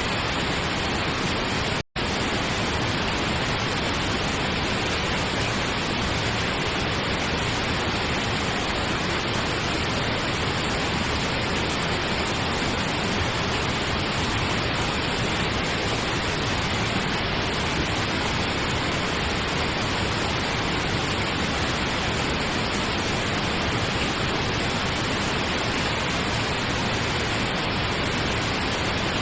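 Steady pink noise, an even hiss spread across all pitches, with a split-second dropout about two seconds in.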